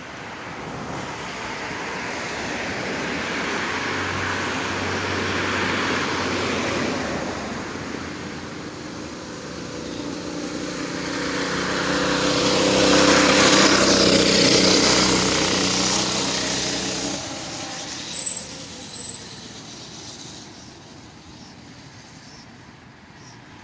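Motor vehicles passing on a street: a swell of road noise, then a louder engine pass-by that peaks about halfway through and fades away over several seconds. Two short high chirps come near the end.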